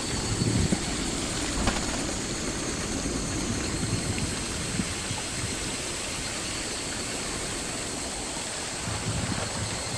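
Water rushing steadily at a traditional waterwheel, with irregular heavier low splashes as the water falls.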